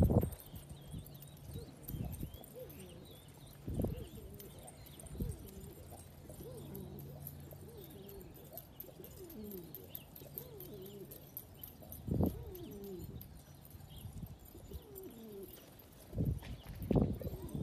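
Domestic pigeons cooing again and again, several voices overlapping, with a few short thumps along the way.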